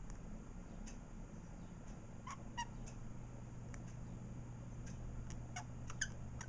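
Budgerigars giving a few short chirps: two together about a third of the way in and two more near the end, over a steady low hum.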